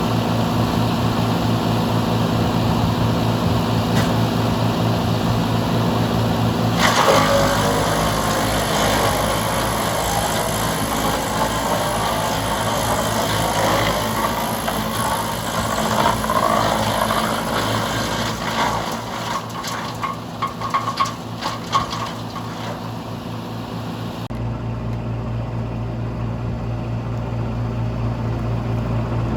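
Tractor-driven wood chipper running steadily. About seven seconds in, branches are fed in, and the machine chips them with a dense crackle of splintering wood and sharp cracks that lasts about fifteen seconds. Near the end it settles back to a steady run with nothing in it.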